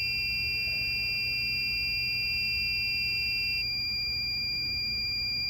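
Magneto timing box's synchronizer test sounding two steady, high electronic tones, one for each magneto's P-lead. About three and a half seconds in one tone cuts out and the other carries on: the box registering a change in one magneto's points as the right-hand magneto is moved toward alignment at 20 degrees before top dead center.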